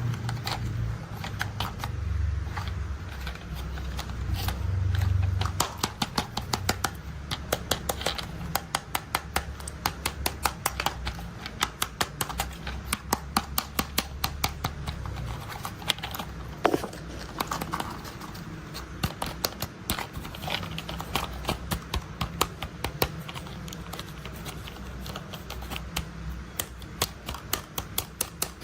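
Plastic toy construction vehicles being handled: rapid, uneven clicking and rattling, over a low hum that fades out about halfway through.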